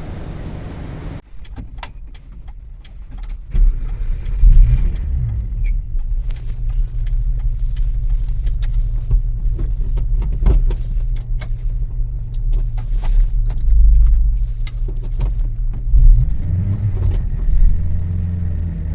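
A 1991 Subaru Sambar 4WD kei truck's small 660 cc four-cylinder engine running, a steady low drone with many small rattles and clicks over it. The engine comes in about three seconds in and swells in level a few times.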